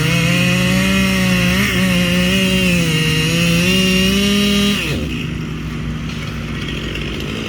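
Chainsaw running at high revs, its pitch sagging and recovering as it cuts. About five seconds in the throttle is let off and the engine sound falls to a lower, quieter running.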